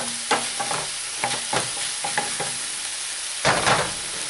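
Fried mushrooms sizzling in a chili sauce in a hot pan as they are stirred, the utensil scraping and knocking against the pan in short strokes. The loudest strokes come together near the end.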